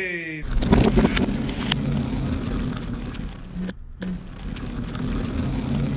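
Toy monster trucks racing: a steady rolling, mechanical noise with low steady tones under it, broken by a brief gap just under four seconds in.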